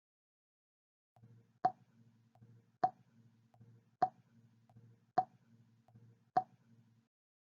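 Five water droplets plopping one at a time, evenly spaced about a second apart.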